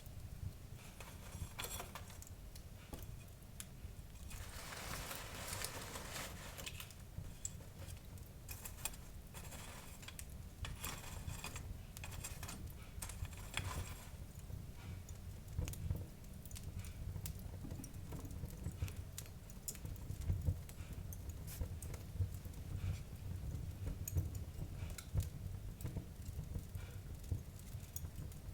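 Wood fire in a fireplace crackling and popping over a low steady rumble, with a brief swell of hissing about five seconds in.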